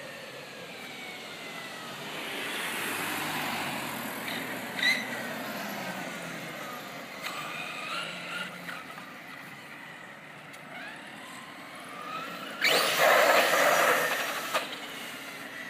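Thunder Tiger MT4 G3 1:8 electric RC monster truck driving, its motor whine rising and falling with the throttle. About 13 seconds in, a loud rushing noise lasts about two seconds.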